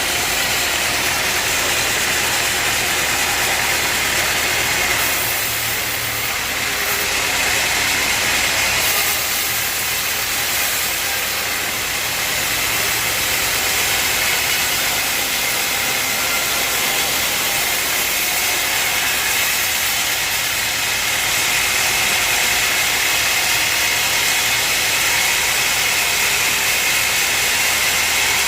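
Sawmill machinery running steadily: a continuous engine-like hum under a steady hiss, with slight dips in loudness now and then.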